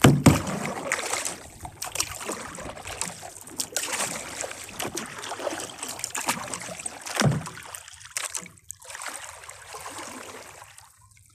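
Kayak paddling: water splashing and trickling off the paddle, with a few sharp knocks, the loudest right at the start and about seven seconds in. It dies away near the end.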